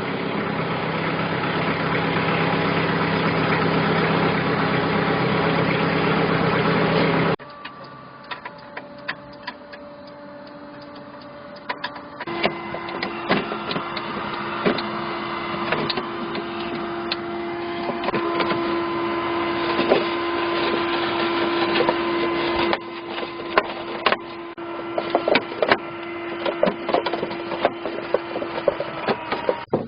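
Daedong LX470 tractor's diesel engine idling steadily, then cutting off abruptly about seven seconds in. After that come light clicks and knocks of hand work on the tractor, with a steady hum through the middle stretch.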